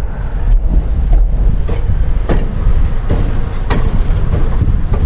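Amtrak passenger train running, heard from its open rear deck: a strong low rumble with sharp wheel clacks over the rails about every half second.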